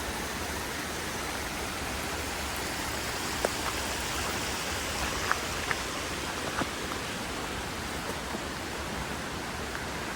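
Mountain river rushing over rocks: a steady, even wash of flowing water, with a few brief clicks over it around the middle.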